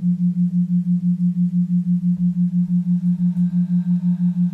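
A low electronic tone pulsing evenly about five times a second, with faint higher tones coming in about three seconds in.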